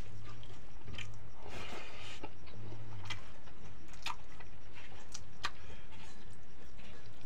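Mouth sounds of people eating rice with spinach saag and urad dal by hand: chewing and lip smacks, with several short, sharp clicks and a brief rustle of fingers working the rice.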